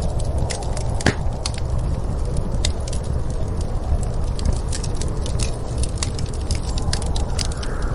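Wood fire crackling with irregular sharp pops, a louder pop about a second in, over a steady low rumble of storm wind.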